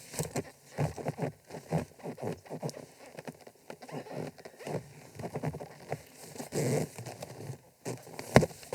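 Irregular clicks, taps and rustles of hands working the hinged boat-seat hardware, with one sharp knock near the end.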